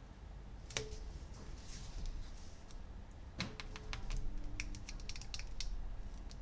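Hard plastic toy pieces clicking and tapping as they are handled: one sharp click just under a second in, some soft rustling, then a quick run of a dozen or so clicks and taps.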